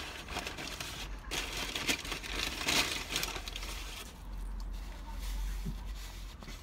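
Close-up chewing of a crispy, batter-fried burger, a crunchy crackle that is loudest in the first three seconds or so and then dies down.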